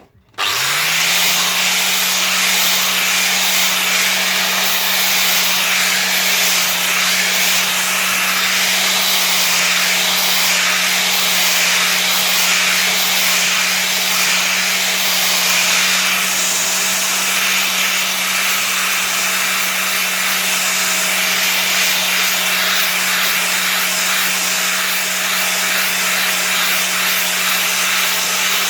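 Electric angle grinder spinning up and then grinding steadily, cleaning up a cut steel repair panel: a constant motor hum under a harsh, even grinding hiss that runs without a break.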